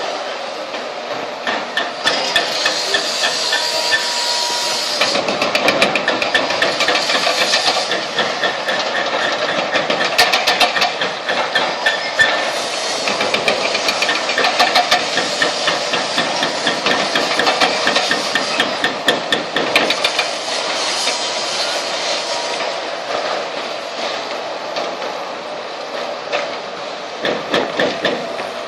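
Demolition excavator breaking up the concrete of a motorway bridge: runs of rapid rattling strikes over a steady hiss, going on and off throughout.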